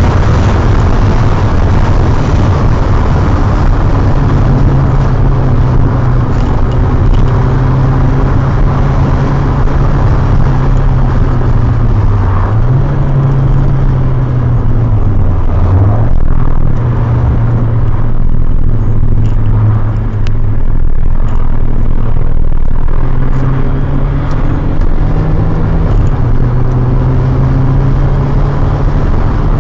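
A GTI's engine pulling hard under load, heard from inside the cabin over loud road and wind noise. The engine note drops and climbs back up twice near the middle, then rises again later.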